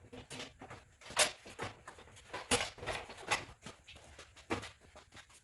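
Irregular knocks and clicks of work going on, a few louder ones about a second apart.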